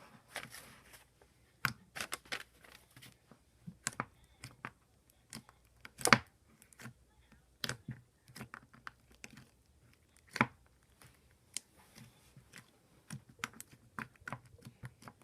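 Butter slime being pressed and pulled with fingers in a container, giving irregular sticky clicks and small pops, the loudest about six seconds in and another at about ten seconds.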